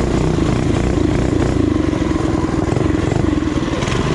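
Small four-stroke single-cylinder trail bike engine running steadily under way, a dense, even firing pulse.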